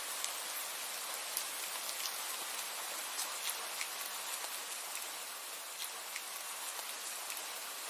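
Steady rain falling, a continuous hiss with frequent individual drops ticking sharply on a surface.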